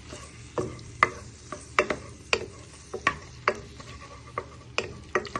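A wooden spoon knocking and scraping against a frying pan, about twice a second at an uneven pace, as chicken pieces are stirred and broken apart. Under it the chicken sizzles faintly in hot oil.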